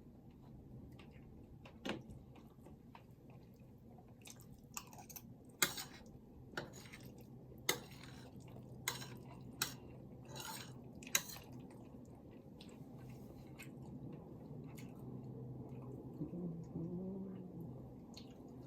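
Eating: utensils clicking sharply against a dish about a dozen times, bunched in the middle, with chewing between, over a steady low hum.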